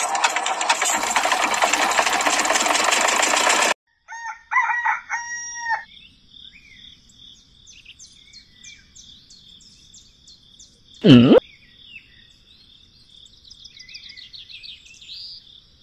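Small motor of a miniature model tractor's belt-driven water pump running with a dense mechanical whir, then cutting off abruptly. A rooster crows, followed by bird chirps over a steady high insect-like tone, with one loud, brief swooping sound about eleven seconds in.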